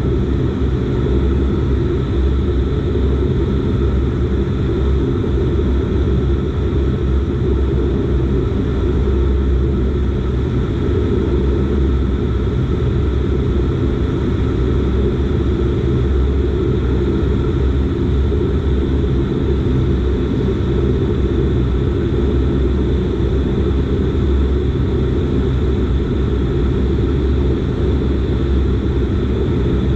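Dash 8 Q400 turboprop engines and propellers running steadily: a loud, even drone with most of its weight low and a few steady tones higher up.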